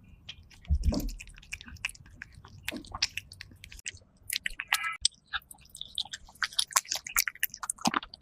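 Cat chewing raw rabbit kidney: irregular, quick chewing clicks and smacks. A heavier low thump about a second in and a brief squeak near five seconds.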